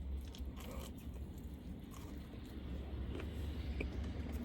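Small clicks, crunches and rustles of someone eating, over a steady low rumble.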